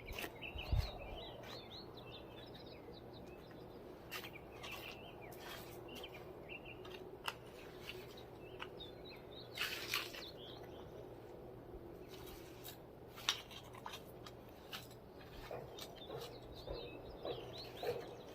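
Small birds chirping in short clusters now and then, with scattered light clicks and taps.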